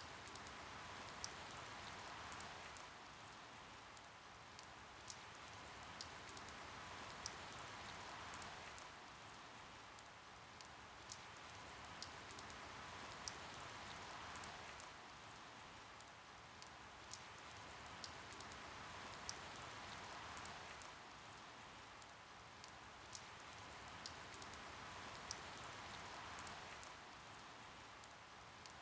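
Faint steady rain, a hiss that swells and eases about every six seconds, with single drops ticking sharply here and there.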